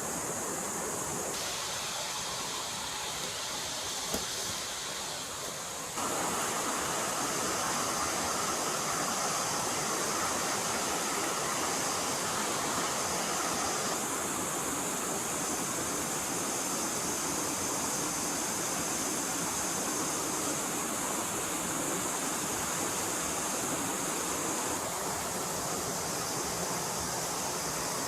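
Forest stream water flowing, a steady rushing sound whose tone shifts abruptly a few times.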